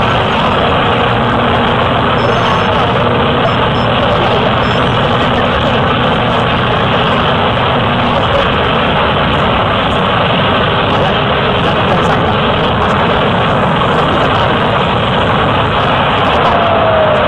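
Cessna light plane's piston engine and propeller running steadily, mixed with a loud, even rush of wind.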